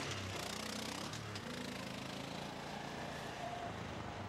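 Small engine of a snowblower running steadily.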